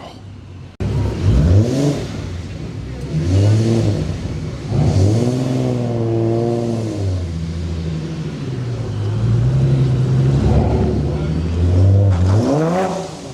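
American V8 engine being revved in repeated blips, with one longer held rev in the middle, a deep, burbly exhaust note with the V8 knock.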